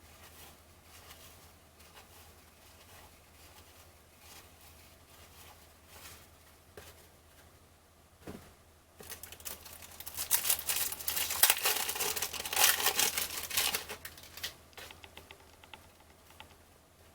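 Cellophane wrapper of a 1989 Fleer cello pack crinkling and tearing as the pack is opened, a loud crackle lasting about five seconds from about halfway in. Before it, quiet rustling and light clicks of cards being handled.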